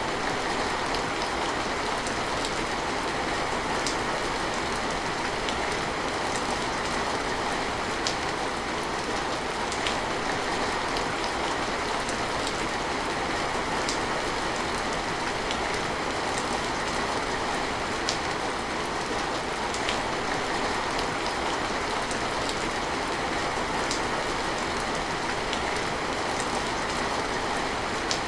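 Steady rain falling, an even hiss with occasional sharper drops and drips landing close by.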